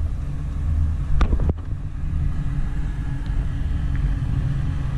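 Classic Chevrolet Camaro SS's V8 engine running with a low, steady rumble as the car rolls slowly. A couple of sharp clicks come about a second in.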